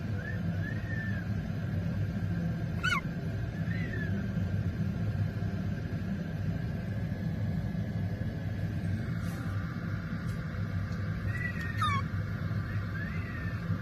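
A parrot giving a few short whistled chirps, two of them quick falling whistles about 3 and 12 seconds in, over a steady low hum.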